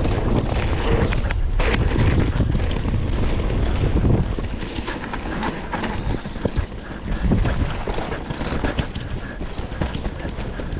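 Wind rushing over the camera microphone while a mountain bike rattles and knocks over rocks and roots at speed on a descent.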